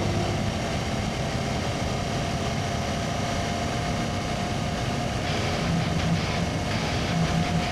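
Voge DS625X motorcycle running steadily on the road, its engine hum under an even rush of wind and road noise.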